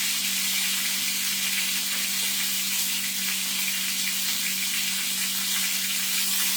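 Chuck roast searing in hot olive oil in a pan on high heat, held on its edge to brown the sides: a steady sizzle with crackling pops of grease.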